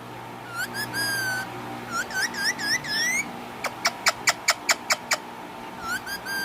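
Pet rose-ringed parakeet chirping: short up-and-down whistled calls, then a quick run of about eight sharp calls in the middle, then more chirps near the end.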